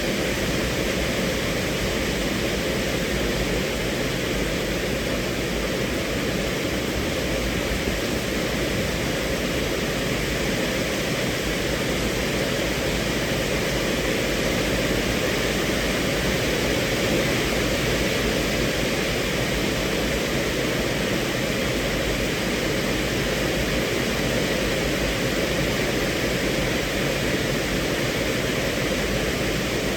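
Steady rain falling on a car's roof and windows, heard from inside the cabin as an even, unbroken hiss.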